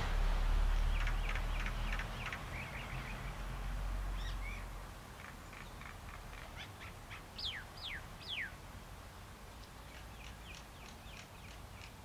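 Wild birds calling: a run of short chirps, then three clear whistled calls that fall in pitch about seven to eight seconds in, and more chirps near the end. A low rumble runs through the first few seconds.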